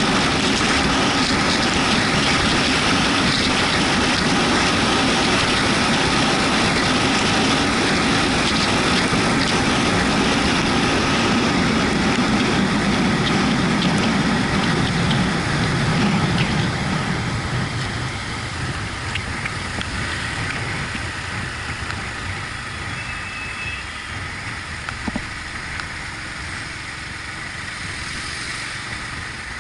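Yamaha MT-125 motorcycle under way, its single-cylinder engine running under a loud rush of wind and road noise. A little over halfway through the engine note fades and the whole sound grows quieter as the bike eases off.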